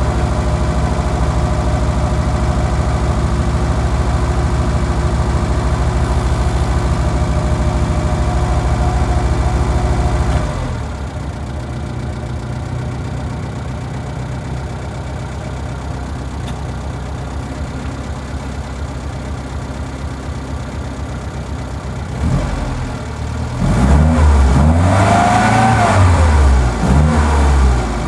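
1972 Mini's 998 cc A-series four-cylinder engine running cold at a fast idle. About ten seconds in it drops suddenly to a lower, quieter idle. Near the end it is revved up and down several times, the loudest part.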